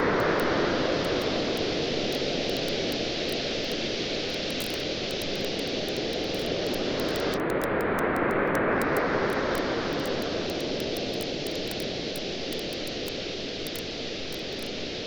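Waves washing onto a beach in slow swells, surging twice about eight seconds apart, with a campfire crackling in small sharp pops over the surf.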